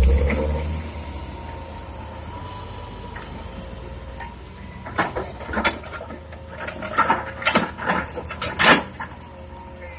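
Heavy diesel engine running loud at first, easing off within the first second to a steady drone, with a run of sharp clanks and knocks from about five to nine seconds in.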